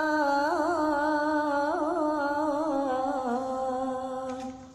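A solo voice singing a long held melismatic note in an Arabic sholawat, with quick vocal trills about half a second and two seconds in. The pitch sinks slowly and the note cuts off shortly before the end.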